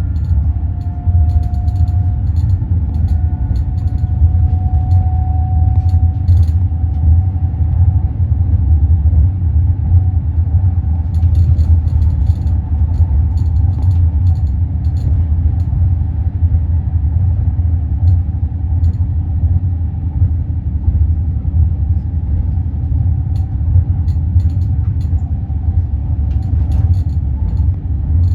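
Roslagsbanan narrow-gauge electric train running with a steady low rumble. A faint whine rises slightly over the first several seconds, and short clicks come in scattered clusters.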